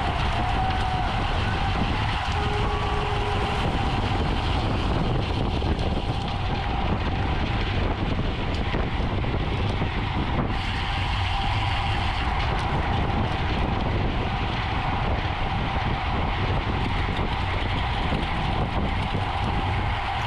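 Road bicycle riding at race speed: steady wind rush on the microphone and road and tyre rumble, with a faint steady whine from the tyres or drivetrain.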